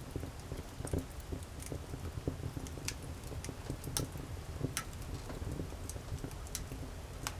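Wood campfire burning, with sharp irregular crackles and pops from the burning wood over a low, steady rumble of flame.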